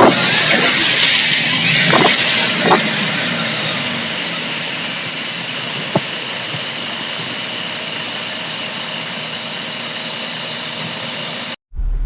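Dashcam audio from a semi truck in the moments after a highway crash: a steady loud hiss with a high squeal, strongest at first and easing over the first few seconds, with one sharp tick about six seconds in. The recording cuts off abruptly near the end.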